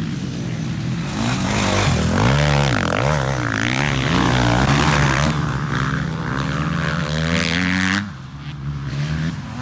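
Dirt bike engine revving hard, its pitch rising and falling as the throttle is worked. It dips suddenly about eight seconds in.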